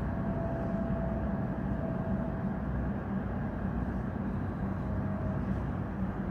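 Jet noise from a Boeing 777-300ER's two GE90-115B turbofans passing over: a steady, deep rumble with a faint, thin whine above it.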